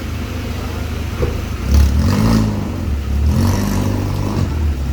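Car engines running close by on the street, with an engine briefly picking up pitch and easing off about two seconds in and again about three and a half seconds in.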